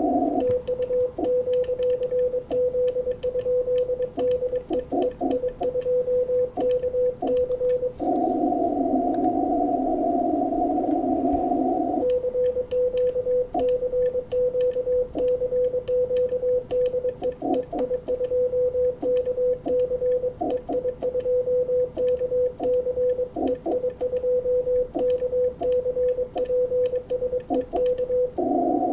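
Morse code (CW) signal on the 20-metre amateur band heard through a shortwave receiver: a single steady tone keyed on and off by the sending station. The receiver's narrow-filtered hiss takes over when the signal stops for about four seconds around a third of the way in, and again near the end.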